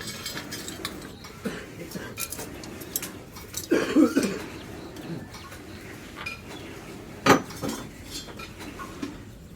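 Light clinks and knocks of steel pieces and tools being handled, with one sharp metal strike a little after seven seconds. A brief pitched call sounds about four seconds in.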